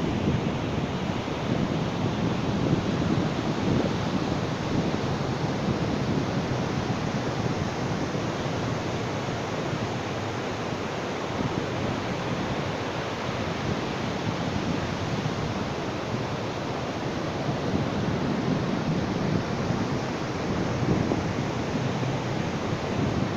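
Ocean surf washing onto a beach: a continuous rush of waves with no distinct single crashes, a little softer around the middle and swelling again near the end.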